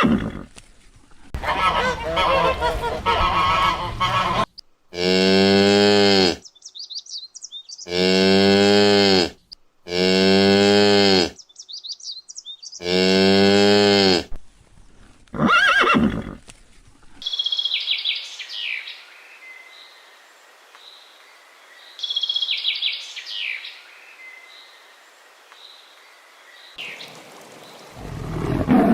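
Cow mooing: four long, loud moos of about a second and a half each, with a shorter call after them. For the last ten seconds or so, fainter high-pitched chirps from another animal take over.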